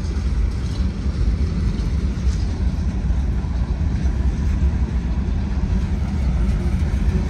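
Freight train of box cars rolling past, a steady low noise of steel wheels on rail.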